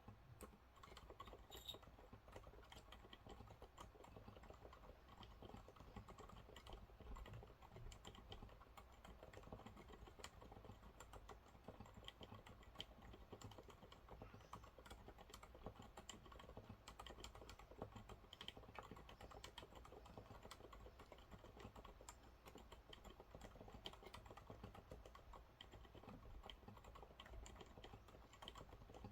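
Steady, continuous typing on a Monsgeek MG108W mechanical keyboard with TTC silent brown switches: a quiet, unbroken stream of soft keystrokes.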